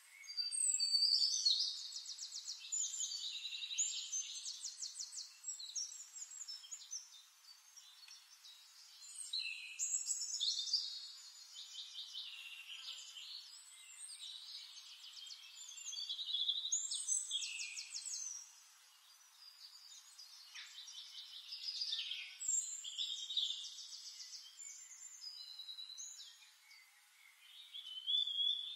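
A songbird singing in long warbling phrases full of rapid trills, several runs of a few seconds each with short pauses between.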